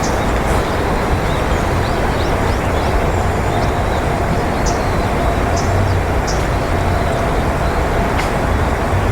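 Steady rumble of distant road traffic, with brief high chirps from small birds scattered through it.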